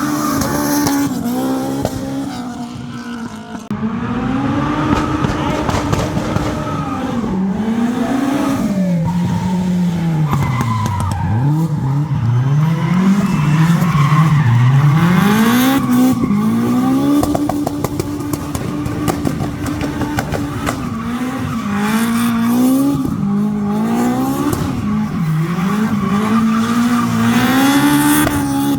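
Rally car engine revving up and down over and over, pitch climbing and dropping with each burst of throttle and lift through the slalom, dipping deep twice about halfway.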